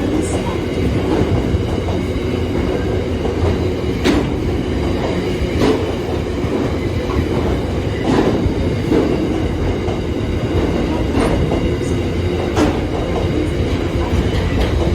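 A train running past with a steady rumble of wheels on rails, broken by a few sharp clicks spread through it.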